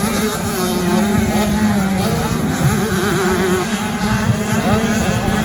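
Several 85 cc two-stroke motocross bike engines running and revving together on the track, their pitches rising and falling as the riders work the throttle.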